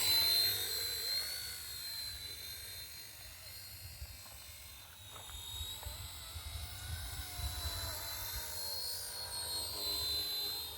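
Small electric RC helicopter flying: a steady high-pitched motor and rotor whine that wavers slightly in pitch, loudest near the start and again near the end as it comes closer.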